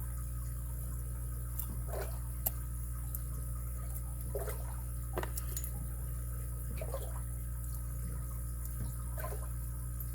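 Lock pick and tension tool working inside a Stanley padlock: faint ticks and short scratchy chirps every couple of seconds as the pins are worked, over a steady low hum.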